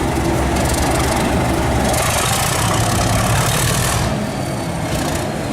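Sound decoder in an OO-gauge Class 37 model locomotive playing its diesel engine sound through the model's small speaker, loud and steady with a slight change about four seconds in.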